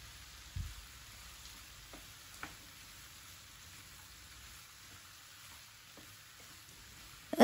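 Faint sizzling of okra, prawns and grated coconut frying in a nonstick pan, with a few light taps and scrapes of a wooden spatula stirring.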